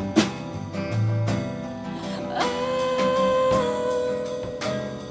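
Instrumental break in a song: guitar strummed in a steady rhythm, with a sustained melodic note that slides in about halfway through and holds for about a second.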